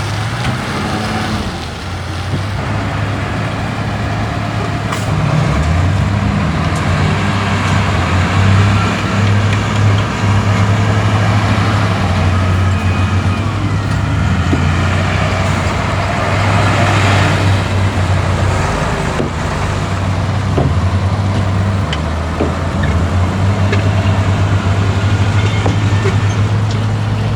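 Diesel engines of heavy earthmoving machinery, bulldozer and dump truck, running at work. It is a steady deep engine drone that grows louder about six seconds in, with occasional faint knocks.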